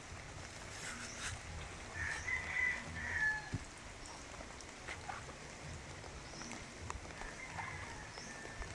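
Outdoor field ambience with a few short bird calls, the clearest about two to three seconds in, over a low steady rumble.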